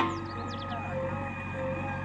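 Heavy diesel machine engine running steadily, a constant hum of held tones, with a few short high falling chirps in the first second.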